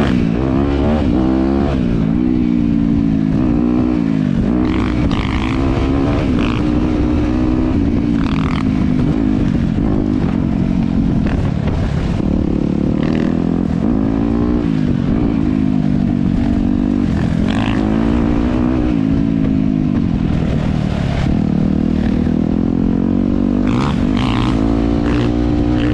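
Dirt bike engine running along a trail, its pitch rising and falling over and over as the throttle is opened and closed and gears change, with low wind rumble on the microphone.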